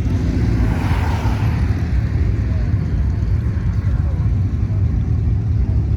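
Deep, steady engine rumble from classic cars cruising past on the street. About a second in, a passing car adds a brief swell of higher-pitched noise.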